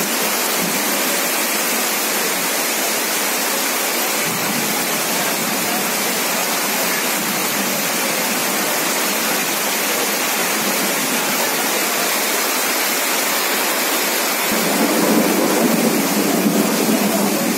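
Heavy rain pouring down in a storm, a dense, steady hiss that grows louder and fuller about three-quarters of the way through.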